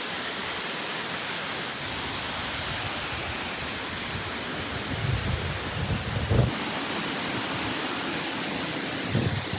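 Waterfall rushing: a steady, even wash of falling water that grows a little brighter about two seconds in. A few low thumps come about halfway through and near the end.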